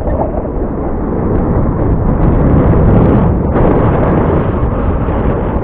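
Strong wind buffeting the microphone: a loud, continuous low rumble that swells and eases with the gusts.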